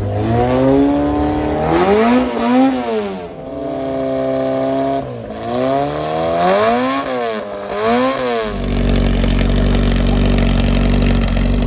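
Vehicle engine revved hard several times, its pitch climbing and dropping in quick blips, then held at a steady speed for the last few seconds.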